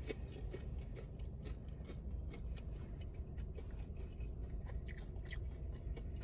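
A person biting into and chewing a mouthful of fried food, with many small crunchy crackles over a steady low hum.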